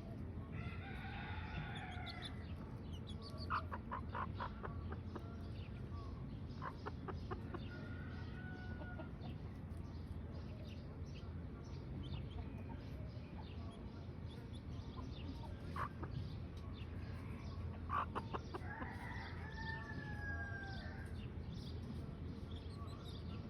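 Domestic chickens clucking, with a rooster crowing twice, once at the start and again late on. There are a few sharp clicks in between, all over a steady low hum.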